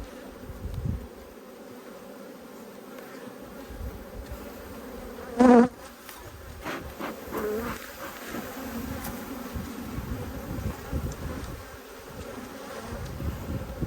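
Honey bees from a strong colony buzzing around an opened Langstroth hive in a steady hum. About five and a half seconds in, a bee passes close to the microphone with a brief, loud buzz that wavers in pitch, and a few fainter passing buzzes follow.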